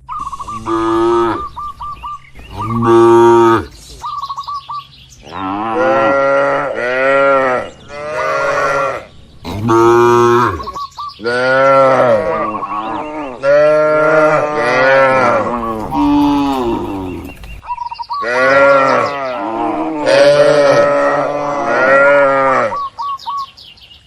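Cattle mooing over and over, call after call with short gaps between, some calls overlapping as several cows low at once. A thin wavering higher note sounds in a few of the gaps.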